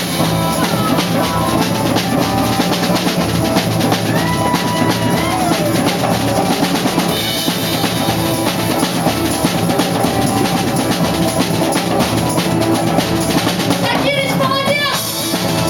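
Instrumental break of a rock song: the band plays on with a steady drum-kit beat of bass drum and snare, and no singing.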